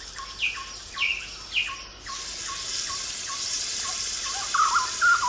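A bird calling a short falling chirp about twice a second, with other birds twittering near the end. From about two seconds in, a steady high hiss runs underneath.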